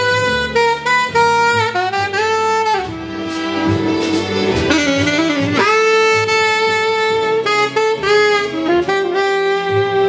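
Jazz music led by a saxophone playing long held notes, with short slides between some of them, over an accompaniment.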